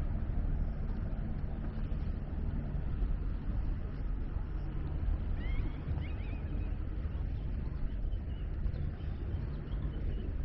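A steady, low engine hum from motor traffic, with a few short chirping bird calls about halfway through.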